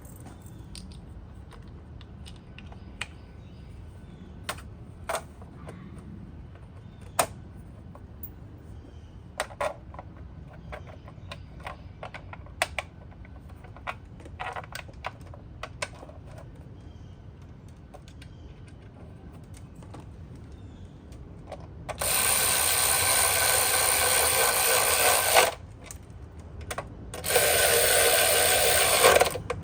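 Light clicks and knocks of an engine cover and its bolts being handled, then a power tool runs twice, for about three seconds and then about two, driving the cover bolts in. The power tool's runs are the loudest sound.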